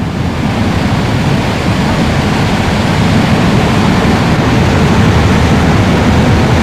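Steady, loud rushing roar of a burning oil well, strongest in the low range, swelling a little over the first couple of seconds and then holding.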